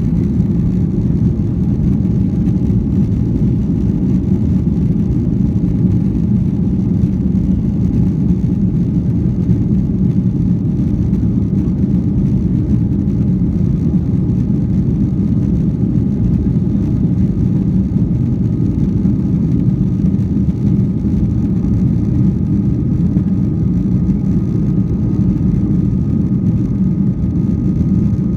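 Airliner cabin noise: the steady low rumble of jet engines and rushing air heard from inside the plane, holding even throughout.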